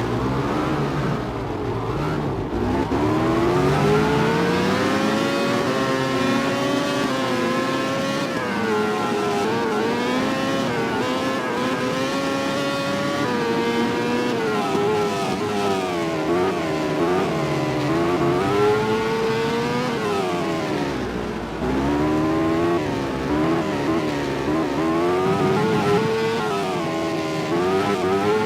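Several MotoGP racing motorcycles at full race pace, their four-stroke engines revving high and climbing through the gears, then dropping back on braking, over and over, with more than one bike heard at once.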